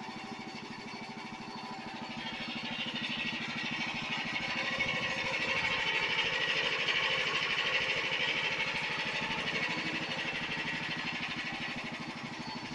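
Small engine of a homemade 4x4 mini tractor running with a fast, even firing beat, growing louder toward the middle and then fading again.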